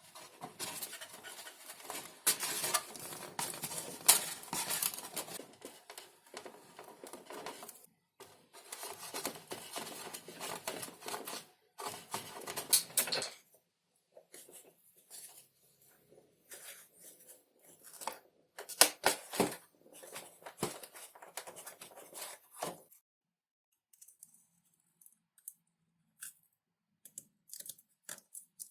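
Thin XPS foam being cut by hand: about thirteen seconds of crackling scraping strokes with one short break, then shorter scattered strokes, and a few small clicks near the end.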